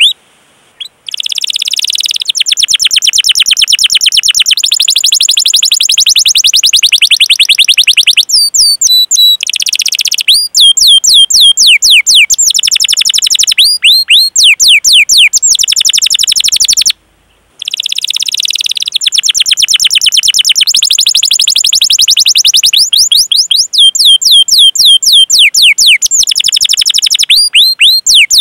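Domestic canary singing a long song of fast trills and rolls, with runs of quick down-sweeping 'cuit' notes. It breaks off twice, briefly about a second in and again about seventeen seconds in.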